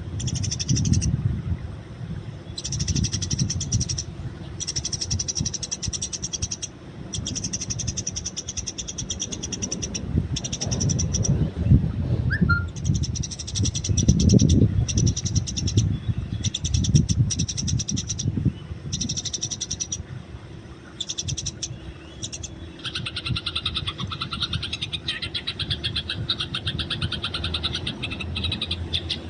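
Eurasian tree sparrows chattering in rapid, pulsing bouts of a second or two, with short breaks between them. The chatter thickens and drops lower in pitch near the end. A low rumble runs underneath.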